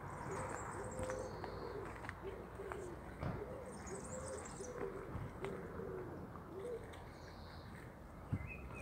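A bird calling in short, low hooting notes, repeated in little groups over and over, with faint high chirps from small birds in the background.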